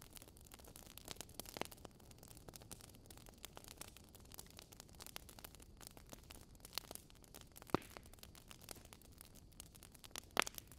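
Wood fire crackling: irregular small snaps and pops over a soft hiss, with two louder pops, one past the middle and one near the end.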